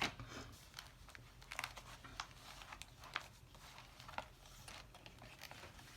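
Paper and cardstock of a handmade junk journal being handled: light rustling and crinkling with a scattered string of small clicks and taps as cards and pages are moved.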